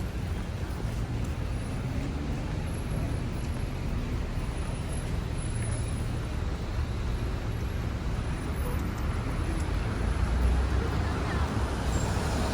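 Steady city street traffic noise, a low rumble of passing vehicles, growing louder near the end.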